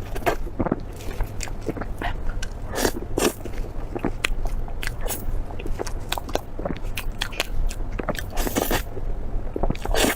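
Close-miked eating: crunchy bites and chewing, many short sharp crunches coming irregularly, over a steady low hum.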